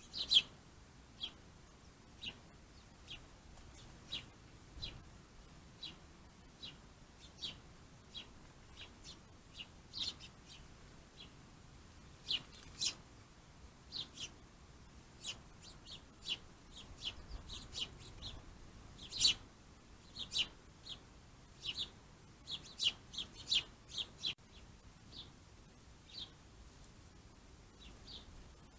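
Small birds chirping: many short, separate high chirps at an irregular pace, coming thicker in the second half.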